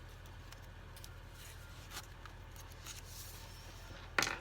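Faint rustling and light taps of paper pages and tags being handled in a handmade journal, over a steady low hum, with one sharper, louder rustle or knock near the end.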